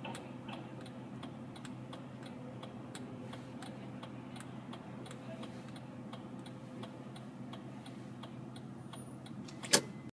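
Turn-signal indicator clicking steadily, a few clicks a second, over the low, steady hum of an idling engine heard inside the car, with one sharper click near the end.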